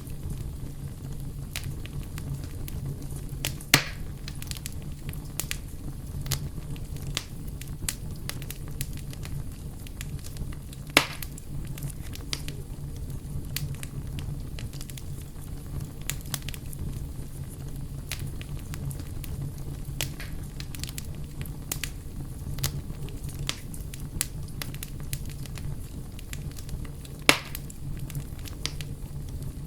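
Campfire burning steadily with constant crackling and scattered snaps, three of them much louder pops, over a steady low rumble.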